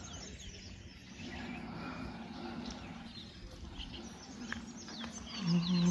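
Several small birds chirping and twittering over quiet background noise, with a brief low steady hum near the end.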